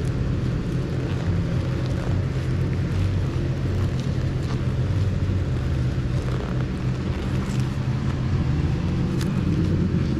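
Car engine running steadily under load, with road and wind noise, heard from inside the car as it laps a racetrack; the engine note shifts only slightly in pitch.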